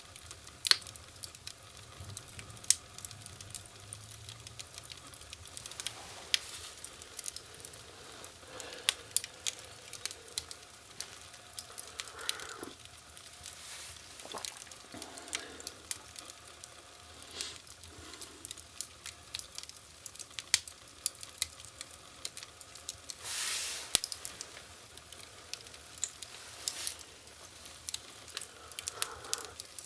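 Wood fire burning in a fireplace, crackling with irregular sharp pops and a brief hiss a little past the middle.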